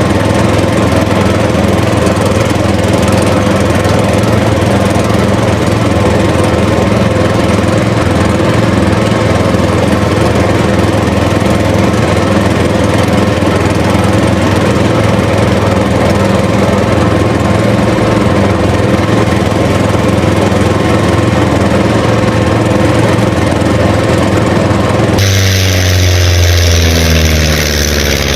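Small engine running steadily at an even pitch. About 25 seconds in it cuts abruptly to a different engine sound whose pitch falls.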